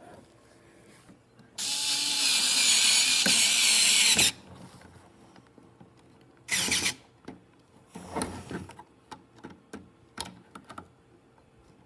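Electric screwdriver running for about two and a half seconds, driving a screw into a 3D printer's power supply case, with a low motor hum that sags slightly under load. Two shorter bursts and scattered clicks follow later.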